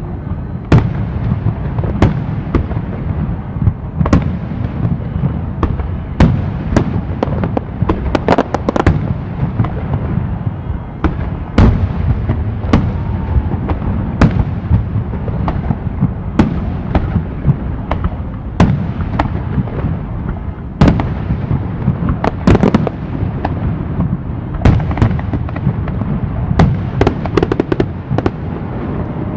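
Fireworks display: aerial shells bursting one after another, several sharp bangs a second over a continuous low rumble of booms.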